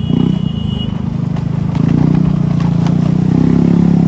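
Motor scooter engine running at a steady cruising speed. A few faint clicks sound in the middle.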